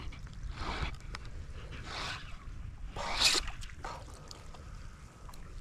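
Sea water washing against rocks, surging three times, the third the loudest, over a steady low rumble.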